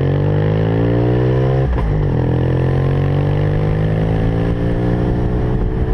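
Suzuki RE5's single-rotor Wankel rotary engine pulling under acceleration. Its pitch rises steadily, dips briefly about two seconds in, then rises again.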